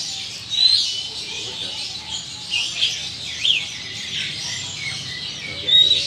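Birds chirping: a string of short high calls and quick whistled glides, a few louder than the rest, over a steady hiss of water being sprayed onto a bird cage.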